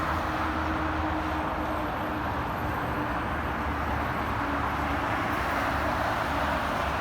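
Interstate highway traffic: a steady rush of tyre noise and engines from passing trucks and cars, with the drone of one engine fading away during the first few seconds.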